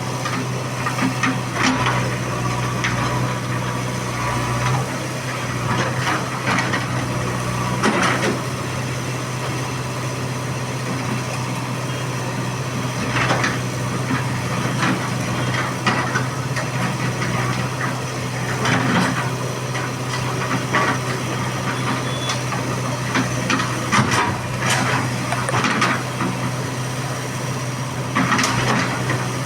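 Diesel engine of heavy earthmoving machinery running steadily, with repeated knocks and rattles of metal and soil work over it.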